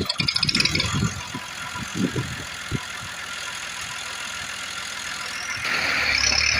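Tractor engine running, with irregular low thumps over the first three seconds, then a steady hum that gets louder near the end.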